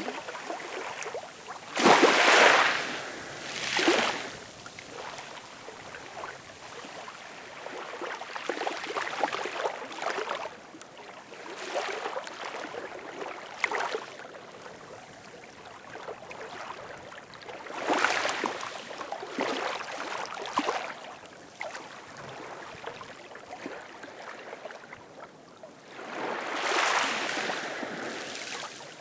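Ocean waves breaking and washing on a shore, with louder surges about two, four, eighteen and twenty-seven seconds in between quieter stretches of hiss and fizzing water.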